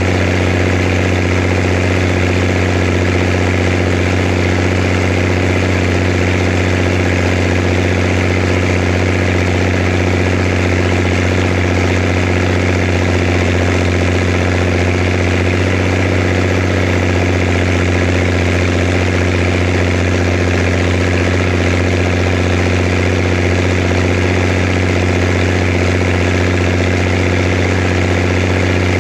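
Zetor Crystal 16145 tractor's diesel engine idling steadily at an even speed, with a deep low hum.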